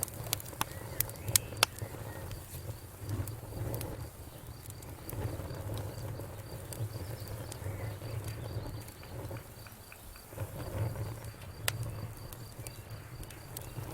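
Wood fire crackling: irregular sharp pops and snaps a second or so apart over a low, steady rumble of burning, with a faint high pulsing chirr in the background.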